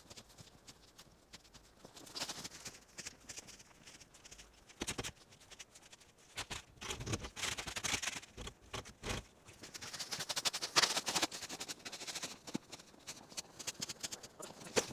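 Wood campfire crackling and popping, with dense runs of snaps that swell louder several times, most strongly about halfway through and again a few seconds later.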